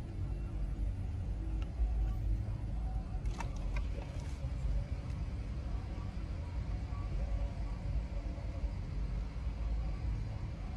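Car driving: a steady low rumble of engine and road noise from inside the cabin, with a few light clicks about three to four seconds in.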